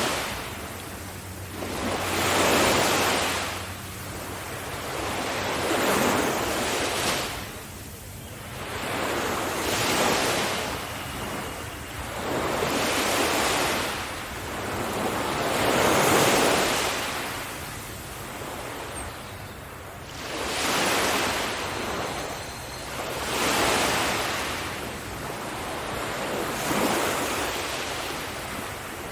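Sea waves breaking on a beach, one after another about every three to four seconds. Each is a hissing swell that rises and then fades as the water washes back.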